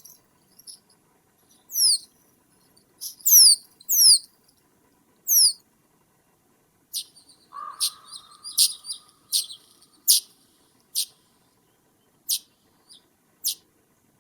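Birds calling: several very high, sharply falling whistled calls in the first half, then a run of short high chips about a second apart, with one lower, drawn-out call near the middle.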